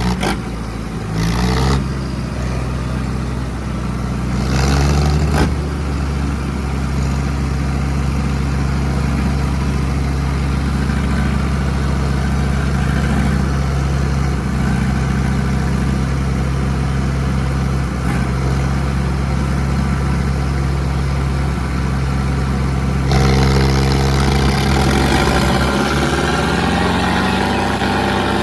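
Tractor diesel engines working hard under heavy pulling load in a tug-of-war. They rev up a couple of times in the first few seconds, then hold a steady laboured note. Near the end they get louder and the pitch climbs.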